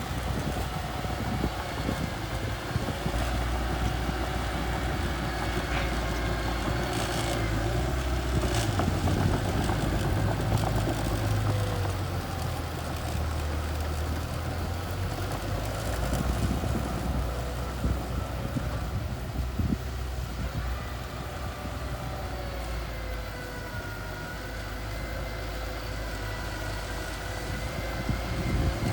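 Mini bulldozer's diesel engine running steadily, its rumble growing louder in the middle and easing off later, with faint whining tones and a couple of sharp clanks early on.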